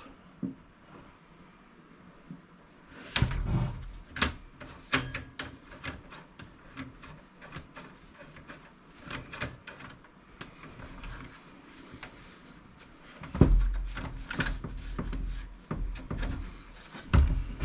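Clicks, knocks and rattles of a desktop computer case being handled and pried at, with a few heavier thumps about three seconds in, around thirteen seconds and near the end.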